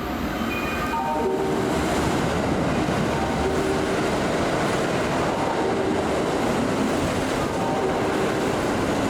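A Kintetsu electric train running along the station track, with a steady loud wheel-and-rail noise that holds level through the whole stretch.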